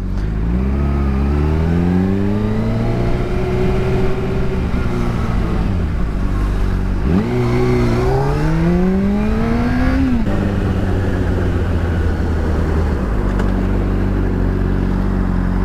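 Honda CBR125's single-cylinder engine pulling up through the revs, easing off about six seconds in, then climbing again before settling at a steady cruise, with rushing wind noise.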